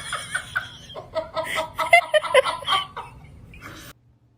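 A person laughing in quick repeated bursts, which cuts off suddenly near the end.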